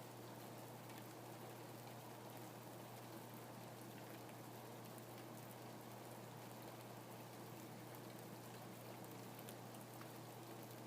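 Quiet, steady rain: an even hiss of rainfall with scattered single drops heard as faint ticks.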